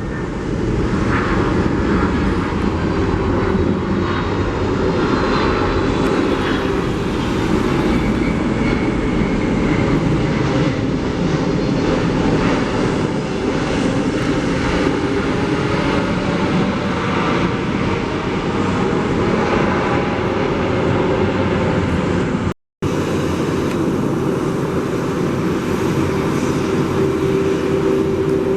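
Jet airliner engine noise, a steady loud rumble that does not let up. It breaks off in a brief silent gap about three quarters of the way through, then carries on.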